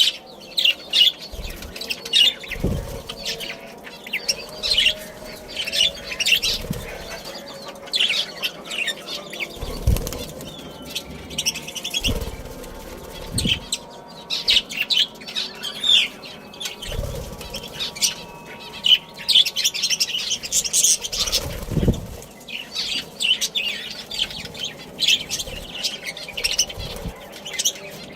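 A colony of budgerigars chirping and chattering continuously, with wings flapping and a few low thumps scattered through.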